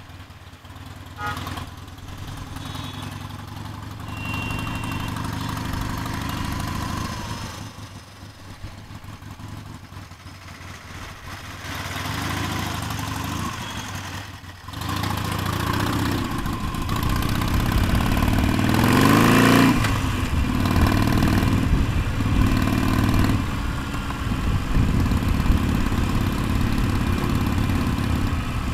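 Harley-Davidson V-twin motorcycle engine, heard from the rider's position, running at low speed in stop-and-go traffic. It gets louder about halfway through and its pitch rises as the bike accelerates, then it runs on steadily under way.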